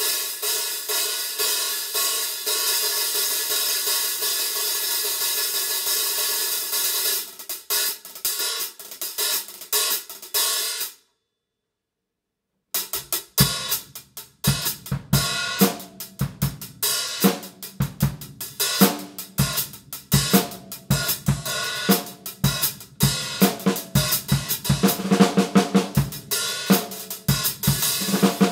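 Paiste 14" Sound Creation Dark Heavy Sound Edge hi-hats (1160 g top, 1280 g bottom) played with sticks. For the first several seconds they ring in one continuous wash, then they are struck in separate strokes. The sound cuts off abruptly for about two seconds, then the hi-hats return in a drum-kit groove with kick and snare drum.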